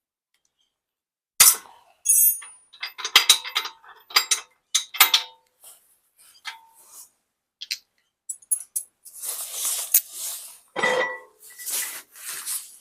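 Steel tractor hitch parts clanking and clinking as the hitch is taken off, a run of sharp ringing knocks about a second and a half in, then longer metal-on-metal scraping near the end.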